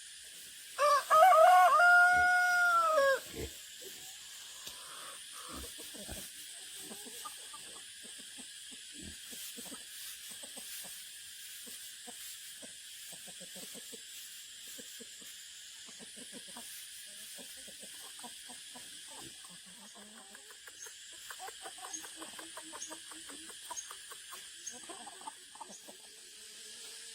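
A rooster crows once, a single long call of about two and a half seconds that rises and then falls in pitch. Faint scattered clicking and rustling follows.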